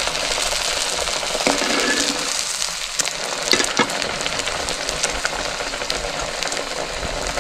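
Food frying in hot oil: a steady sizzling hiss, with a few light clicks from a utensil about halfway through.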